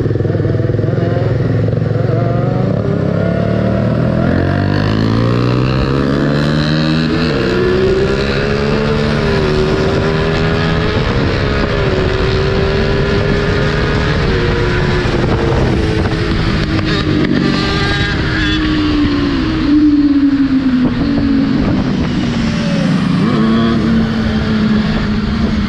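Honda Hornet 250's high-revving inline-four engine under way. It climbs steadily in pitch for several seconds, holds high revs, then winds slowly down as the rider eases off.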